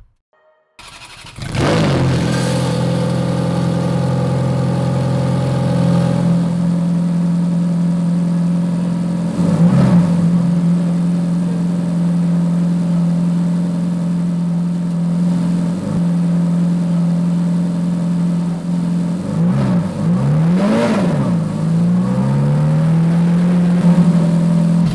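Ferrari engine starting up and settling into a steady idle. It is revved in a quick blip about ten seconds in and in several blips near the end, the pitch rising and falling with each one.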